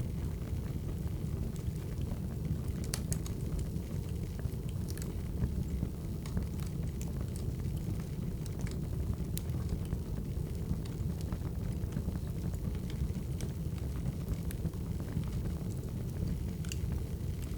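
Crackling wood fire: a steady low rumble with scattered sharp pops and snaps.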